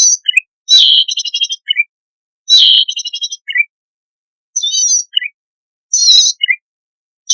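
Cici padi songbird singing a repeated lure song. Each phrase is a buzzy, wavering high note followed by two or three short lower chips, repeated about every one and a half to two seconds. Two of the phrases also carry a fast rattling trill.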